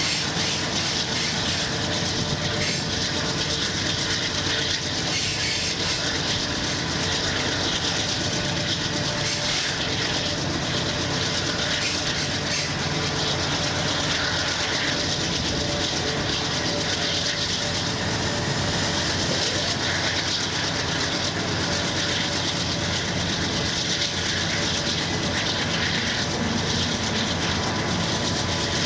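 BNSF freight train rolling: a steady mix of wheels running on the rails and the diesel locomotives working just ahead, heard from beside the car with the locomotives in view.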